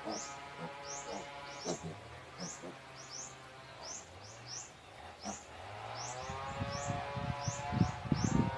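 Small birds chirping, short rising chirps a few times a second, over a steady low hum. From about six seconds in, a rapid run of low, rough sounds builds and is loudest near the end.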